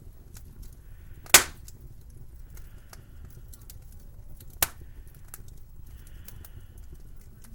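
Wood fire crackling, many small clicks over a low rumble, with two sharp loud pops about a second and a half in and again near five seconds in.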